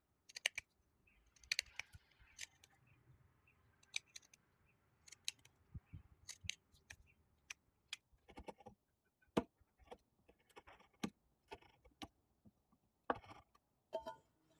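Scattered light clicks and taps, irregular and a second or so apart, like small hard objects being handled and set down.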